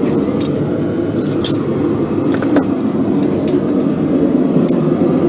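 Forge running with a steady low rushing noise, with a few sharp light metallic clicks and clinks scattered across it.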